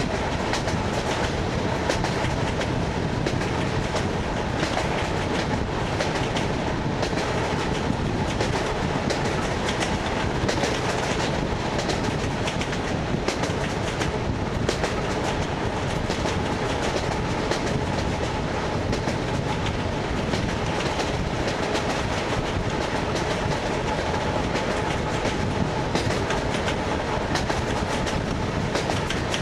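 Wheels of an ED9MK electric multiple unit clicking over the joints of jointed rail as the train runs at speed, under a steady rumble, heard from inside the car.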